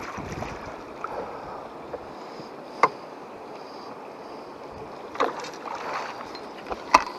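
Steady wind noise, with a few sharp knocks: the loudest about three seconds in and just before the end, a smaller cluster a little past the middle.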